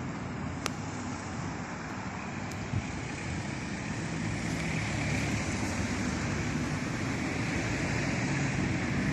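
Steady outdoor background noise, a low rumble with hiss above it, growing slightly louder midway, with one faint click about a second in.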